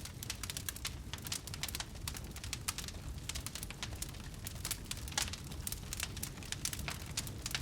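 Wood fire crackling in a fireplace: dense, irregular snaps and pops over a steady low rumble of the flames.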